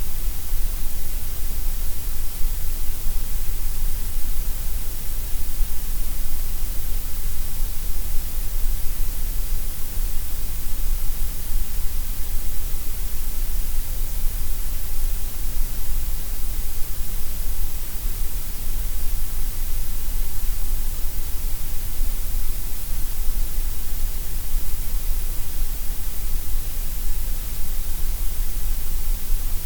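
Gray noise: a steady, even hiss that never changes, heavier in the deep lows and the highs than in the middle.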